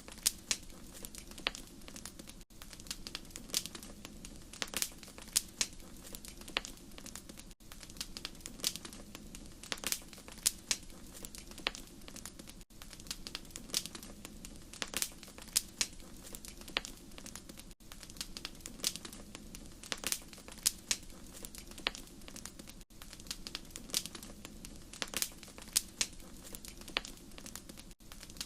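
Wood fire crackling in a fireplace: irregular sharp pops and snaps over a steady low rumble of flame. The sound drops out briefly about every five seconds.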